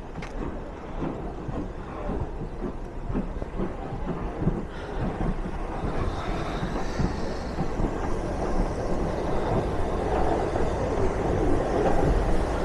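A train running on the line: a low rumble with scattered knocks that grows steadily louder.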